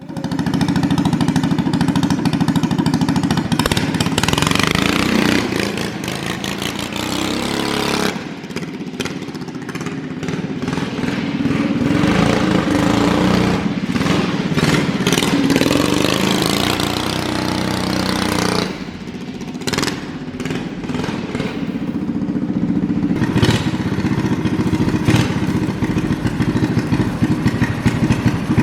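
Drift kart's small carburetted engine running after a spark-plug change, the throttle rising and falling, with brief easings-off about eight and nineteen seconds in. The engine now starts and keeps running after its carburettor trouble.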